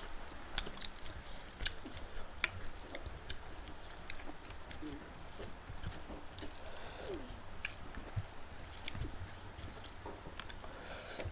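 Close-up eating sounds: chewing with scattered wet mouth clicks and smacks.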